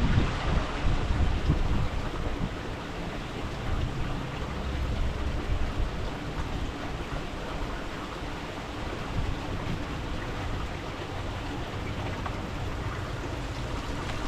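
Wind buffeting the microphone as an irregular low rumble over a steady outdoor hiss, the gusts easing about two seconds in.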